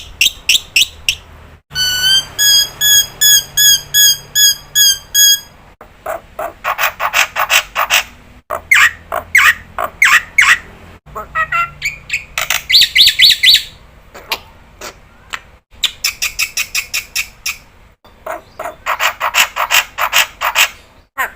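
Jalak putih (black-winged myna) calling loudly in rapid trains of sharp, harsh notes, several a second. About two seconds in there is a run of evenly repeated ringing whistles. The segments break off abruptly, as in an edited recording.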